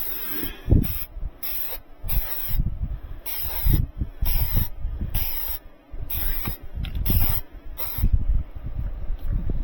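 Aerosol can of spray adhesive being sprayed in a series of about a dozen short hissing bursts, which stop about eight seconds in, with low knocks and handling noise between them.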